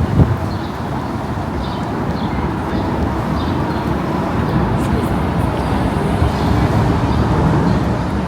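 Outdoor city street ambience: a steady rumble of road traffic that swells slightly past the middle, with faint voices of passers-by.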